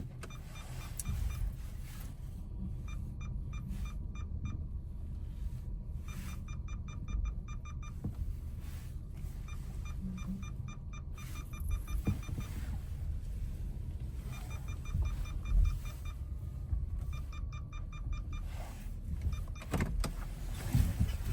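Steady low road-and-engine rumble inside a moving car's cabin, with a few stretches of faint, rapid, even ticking.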